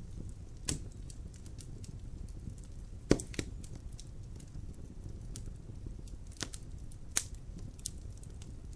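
Wood fire crackling in a fireplace: about half a dozen sharp pops at uneven intervals, the loudest about three seconds in, over a low steady rumble of the flames.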